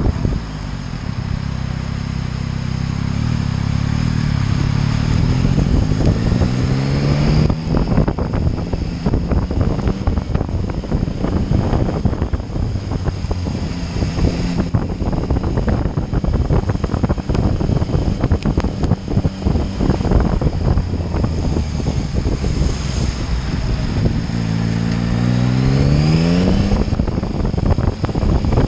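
Motorcycle engine pulling away, its pitch climbing steadily for several seconds, then running on under heavy wind buffeting on the microphone. Near the end it accelerates again with another rising pull.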